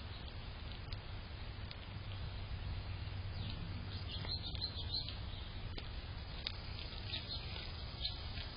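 Small birds chirping in short, high chirps, bunched about halfway through and again near the end, over steady low background noise.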